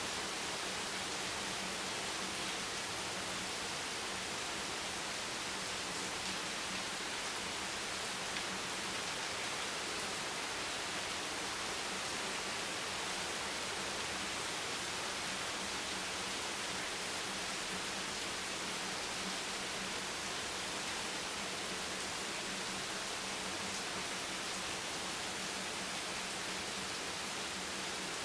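Steady rain: an even hiss with no separate drops standing out and no change in level.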